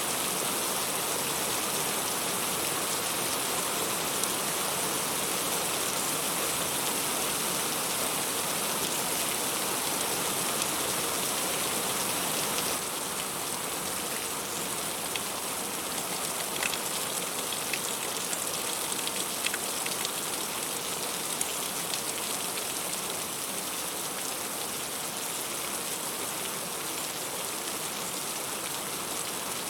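Heavy rain falling steadily, a dense even hiss with scattered individual drops striking close by; it becomes a little quieter and less bright about thirteen seconds in.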